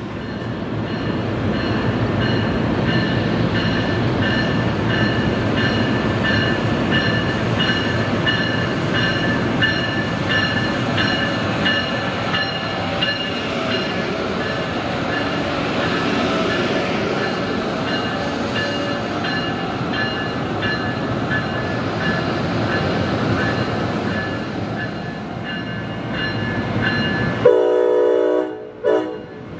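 Amtrak train hauled by an ACS-64 electric locomotive moving along a station platform: a steady rumble of wheels on rail with high steady tones that pulse evenly. Near the end the rumble cuts off and a short, loud horn-like blast sounds.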